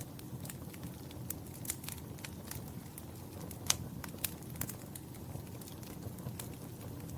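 Wood fire crackling in a fireplace: a steady low rumble of flames under scattered sharp pops and snaps, the loudest a little past halfway.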